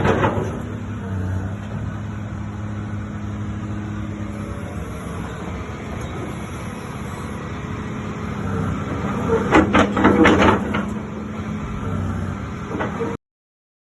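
Hitachi ZX200 excavator's diesel engine running steadily, with a cluster of sharp metallic clanks about ten seconds in. The sound cuts off suddenly near the end.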